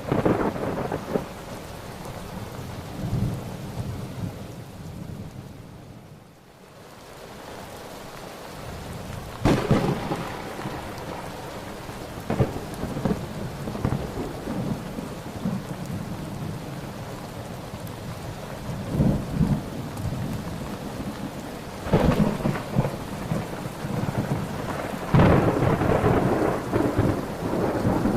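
Thunderstorm: steady heavy rain with repeated thunder, sharp cracks about nine seconds in, at about twenty-two and about twenty-five seconds, and rumbling between them. The rain eases briefly about six seconds in.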